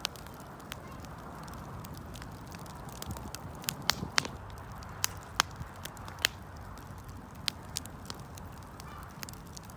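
Wood fire crackling: irregular sharp pops and snaps over a soft steady hiss, with a few louder snaps near the middle.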